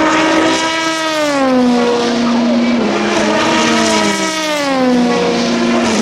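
Endurance race cars running past on track, their engines' pitch falling in a long glide about twice as cars go by.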